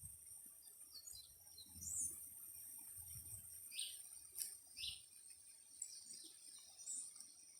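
Faint wild birds calling: a few short, separate chirps, two of them quick falling notes, over a steady high-pitched insect drone. A single sharp click sounds about halfway through.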